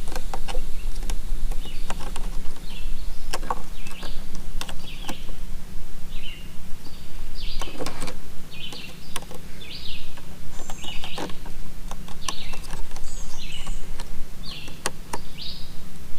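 Small birds chirping over and over, short high chirps coming every second or so, with a few sharp clicks and taps of hand work on the truck's screws and a steady low hum beneath.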